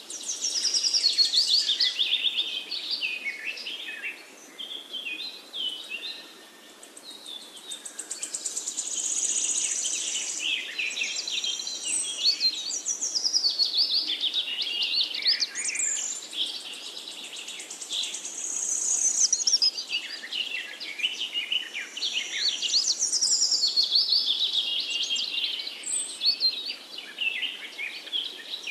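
Songbirds chirping and warbling in quick, overlapping trills that swell and fade in waves.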